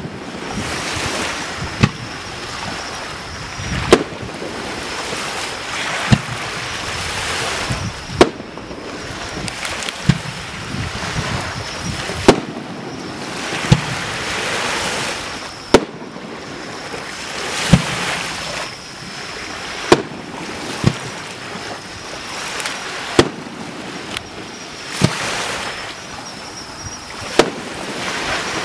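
Aerial fireworks display: one shell after another goes off with a sharp boom about every two seconds, over a steady rushing noise in between.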